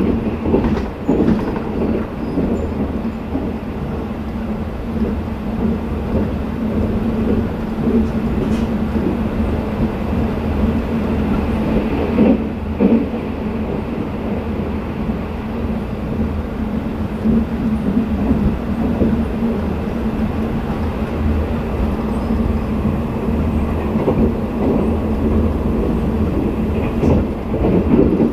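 Twilight Express sleeper train running at speed, heard from inside a passenger car: a steady rumble of wheels on rail with scattered clicks over the rail joints, and a louder clatter about twelve seconds in.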